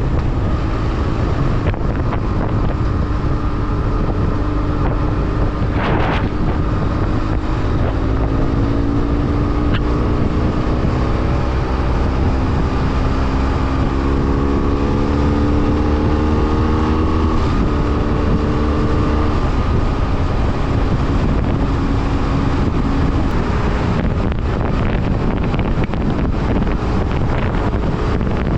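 BMW F800R motorcycle's parallel-twin engine running under way, with wind buffeting the microphone. About a third of the way in the engine note climbs slowly in pitch as it accelerates, steps once and levels off, then fades back into the steady rumble and wind.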